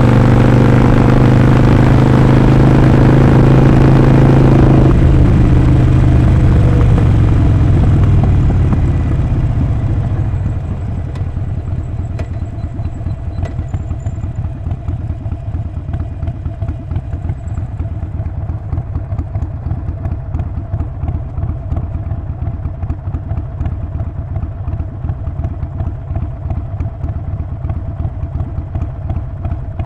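Harley-Davidson Sportster 48's 1200 cc V-twin engine and exhaust running loud on the move, then easing off about five seconds in and dropping to a quieter, steady idle of even exhaust pulses by about ten seconds in.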